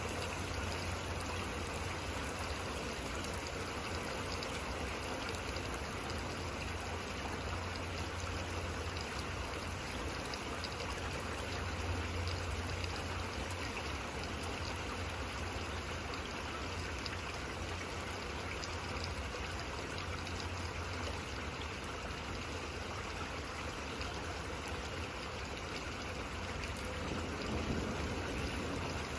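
Steady rain falling, with trickling water and scattered light drips, over a low steady rumble. The level rises slightly near the end.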